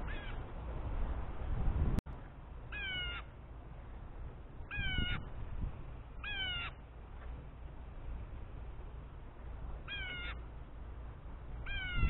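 A bird calling from the fence: about six short, slurred calls a second or more apart, each bending in pitch, over a low steady rumble. The calls sound harsh and agitated, as from an angry bird.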